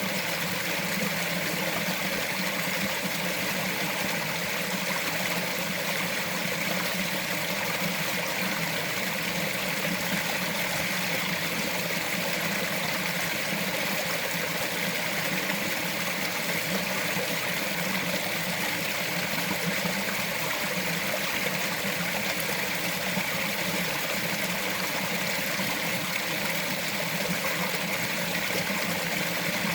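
Small mountain forest stream flowing steadily, water trickling and babbling over rocks.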